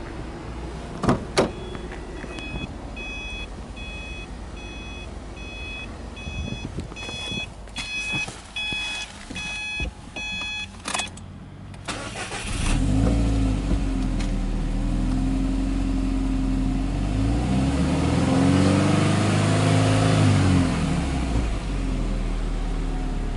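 Two sharp clicks at the car door, then repeated dashboard warning beeps for several seconds, before a Subaru Impreza WRX STI hatchback's turbocharged flat-four (boxer) engine starts about halfway through. It settles into a steady idle, with the revs rising and falling once near the end.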